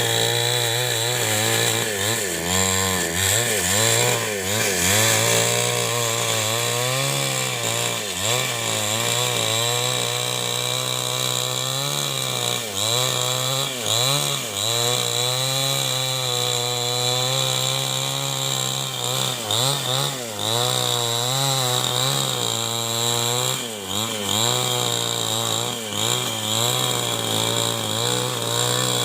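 New West 788 two-stroke chainsaw running at high revs while cutting wood. The engine note repeatedly dips and recovers as the chain bogs under load and frees up again.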